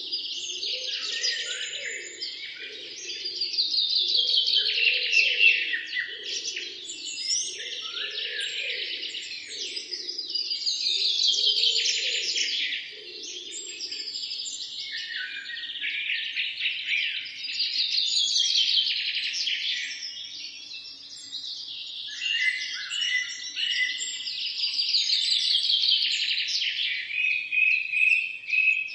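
Songbirds singing and chirping, with a trilled phrase that falls in pitch and returns about every seven seconds. A fainter, lower pulsing sound runs under the first half and then fades out.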